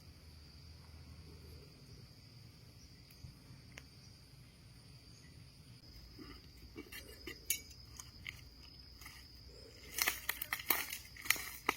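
A steady high insect drone, with crunching and crackling handling noises that begin about halfway through and are loudest near the end.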